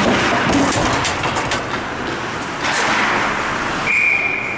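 Ice hockey rink noise during a youth game: a steady wash of arena sound with several sharp clicks of sticks and puck about a second in, then a short, steady, high whistle blast near the end.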